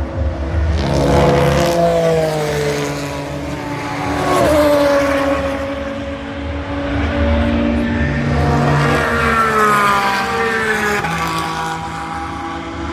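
GT race cars passing at speed, one after another, their engine notes rising and falling as each goes by, loudest about a second in, around four and a half seconds in, and again from about eight to ten seconds in.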